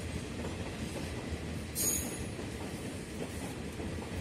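Freight train wagons rolling slowly into a station, wheels rumbling and clattering on the rails, with a brief high-pitched screech about two seconds in as the train slows to pull into the siding.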